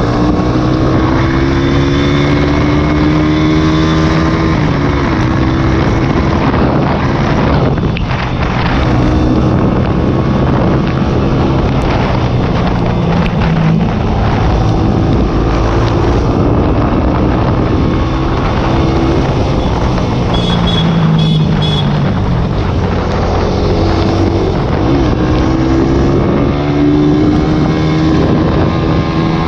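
A small single-cylinder sport motorcycle engine revving hard through the gears. Its pitch climbs and falls back again and again as it shifts, with wind on the microphone.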